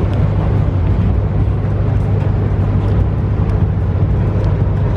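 Car engine idling close by: a steady low hum with a constant rumble over it.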